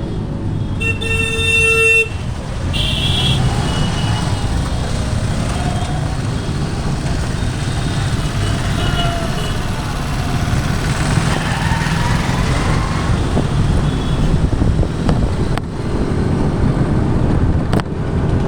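Road traffic heard from a moving scooter: a vehicle horn sounds about a second in for about a second, followed by a shorter, higher-pitched horn toot, over a steady low rumble of engine, wind and road noise.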